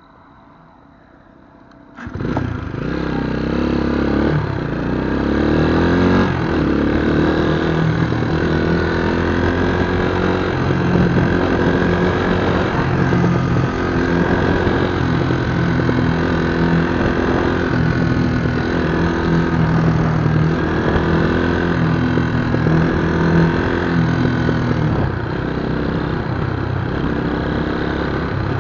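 Scrambler motorcycle engine starting about two seconds in, then revved again and again, pitch rising and falling, before settling to a steadier idle near the end.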